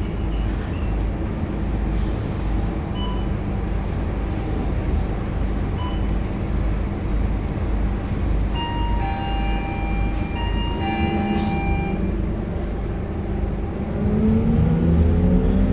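Scania K230UB city bus's diesel engine running with a steady low drone as the bus travels, with a few brief high squealing tones partway through. Near the end the engine note climbs and grows louder as the bus accelerates.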